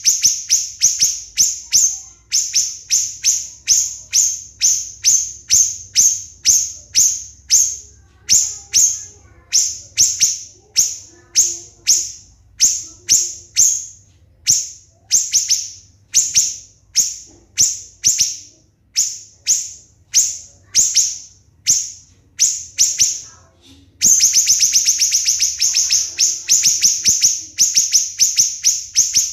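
Siri-siri bird singing a long series of sharp, high notes, each falling quickly in pitch, at about two to three a second. Near the end it breaks into a faster run of tightly packed notes.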